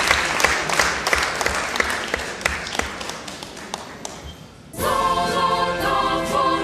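Audience applauding, the clapping thinning and dying away over about four seconds. Nearly five seconds in, choir music starts abruptly.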